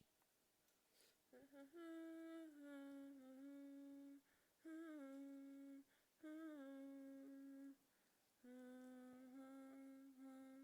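A person humming a slow tune in four phrases of long held notes, each phrase opening a little higher and then settling down onto its held note; fairly quiet.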